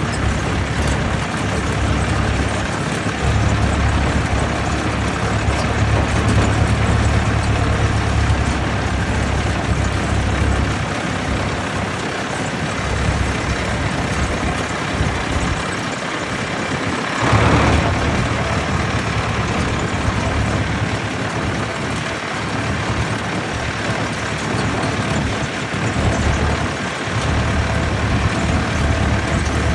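Vintage tractor engines running as tractors travel along a road, with a low rumble that comes and goes and a brief louder surge about seventeen seconds in.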